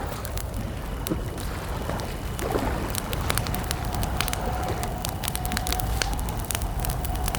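Wood campfire crackling: many sharp pops and snaps over a low steady rumble of burning. A thin, steady wavering tone comes in about halfway through.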